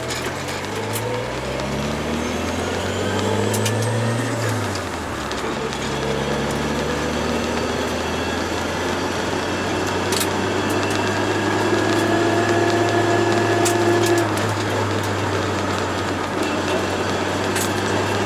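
Turbocharged Toyota AE86 accelerating: the engine note climbs for about four seconds with a faint high whistle rising alongside it. The note then drops off and settles into a steady drone as the car cruises.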